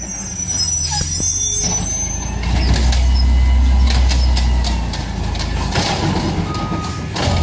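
Garbage truck's diesel-type engine running heavily, growing louder about two and a half seconds in, with scattered knocks and clatter from the truck.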